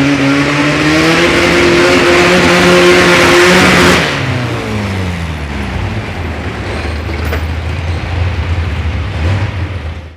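Multi-engine pulling garden tractor at full throttle, its engine note climbing steadily under load. About four seconds in the throttle is cut and the pitch falls away to a lower rumble, which cuts off suddenly at the end.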